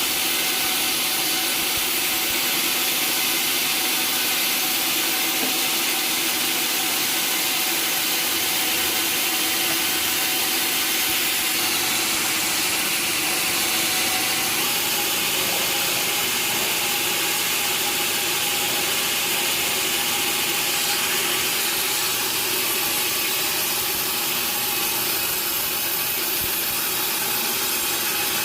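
Sawmill saw cutting through teak timber in one continuous cut: a steady high hiss over the even hum of the machine, with no pauses.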